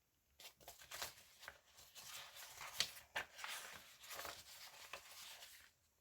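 Paper rustling and crinkling as it is handled, in a run of soft scratchy rustles and light taps, with one sharper tick about halfway through.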